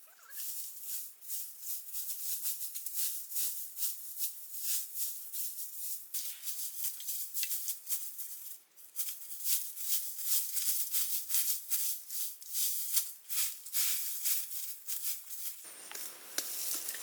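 Dry rustling and crackling: many quick, irregular scratches and crackles, like dry leaves, twigs or a plastic sheet being handled. A lower background sound comes in near the end.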